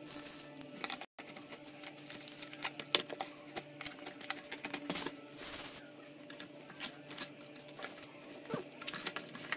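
Netbook packaging being unboxed by hand: irregular clicks, taps and rustling of box and wrapping, with a longer crinkling rustle about halfway through. A faint steady hum lies underneath.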